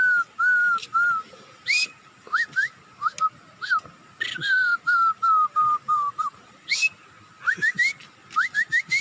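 A person whistling a bird-call imitation. It is a run of short falling whistled notes, broken by a few upward slides. It ends with quick rising chirps in twos and threes, with sharp mouth clicks mixed in.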